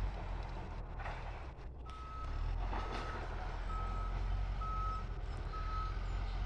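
Engine running steadily under a reversing alarm that starts beeping about two seconds in, a single steady tone repeated about once a second, five times.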